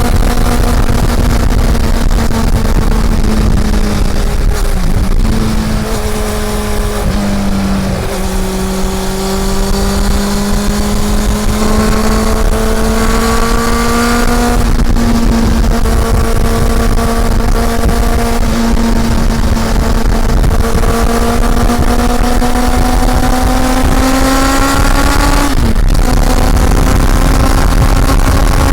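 Honda CB400 Super Four's inline-four engine running under way. Its note steps down a few times about 5 to 8 seconds in, then climbs slowly and steadily, drops sharply near the end, and holds steady after that, over a low wind rumble on the microphone.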